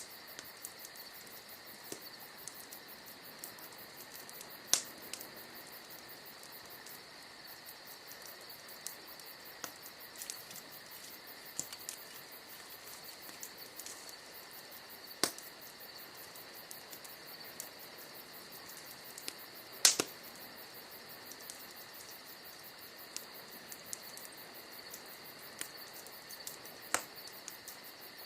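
Bonfire crackling with fine, fast ticks and a few sharp pops, the loudest about two-thirds of the way through. A steady high-pitched chirring runs underneath.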